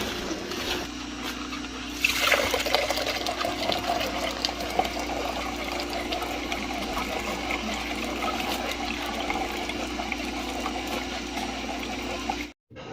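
Liquid pouring and trickling steadily, getting louder about two seconds in, over a faint steady hum; it cuts off suddenly near the end.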